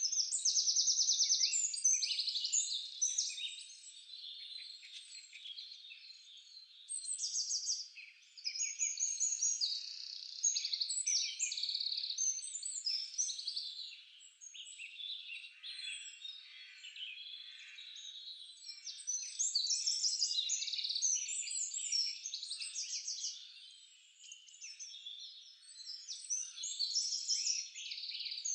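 Several songbirds singing at once: a dense chorus of high-pitched trills and quick chirping phrases that overlap and swell and fade every few seconds.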